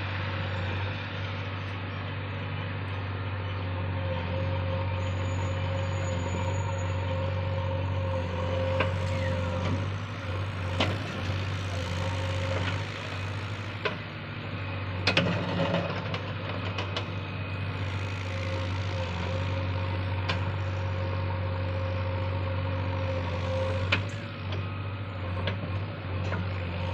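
Heavy diesel engine running steadily, with a few sharp knocks and clanks, the loudest cluster about halfway through.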